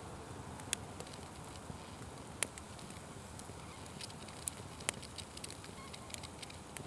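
Wood fire crackling: a steady low hiss and rustle of burning with irregular sharp pops, the loudest about two and a half seconds in.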